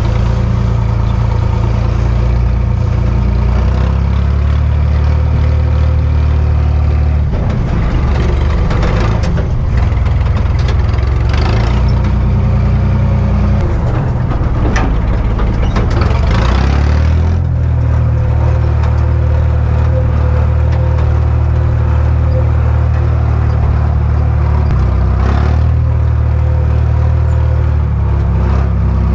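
Cummins diesel engine of an old dump truck running, its speed stepping up and down several times. A couple of short rattling, noisy stretches come in near the middle.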